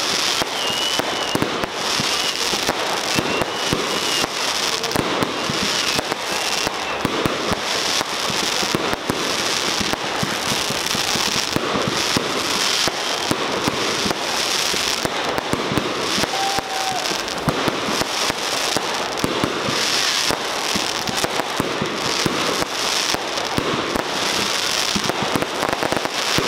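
Fireworks display going off, with a dense, continuous run of bangs and crackling and no pauses.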